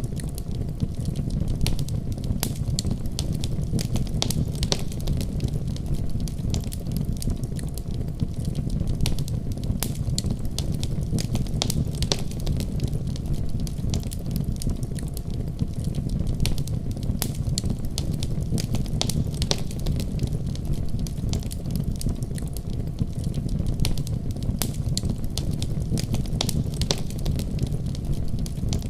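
Wood fire crackling in a fireplace: irregular sharp pops and snaps scattered throughout, over a steady low rumbling noise.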